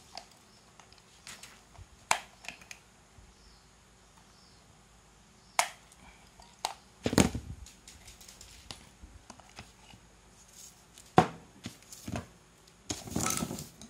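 Small clicks and knocks of fishing-reel parts being pried apart and handled during disassembly. A louder thump comes about seven seconds in, and a short scraping rustle near the end.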